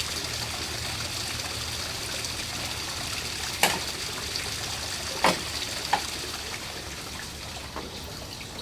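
Water trickling steadily, with a few sharp clicks about three and a half, five and six seconds in.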